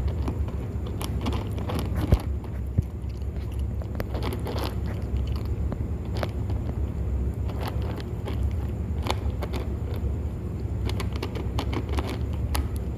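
Kittens chewing and biting food: many small clicks and crunches, with a sharp click about two seconds in, over a steady low hum.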